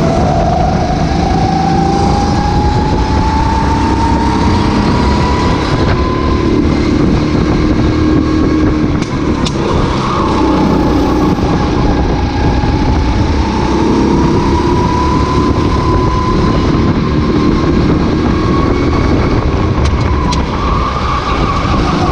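Racing kart engine at race pace, heard onboard over wind noise. Its pitch climbs steadily on each straight and drops back several times as the driver lifts and brakes for corners.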